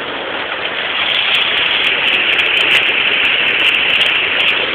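Torrential rain falling steadily on a garden and wooden deck, a dense even hiss that grows a little louder about a second in, with scattered sharp clicks.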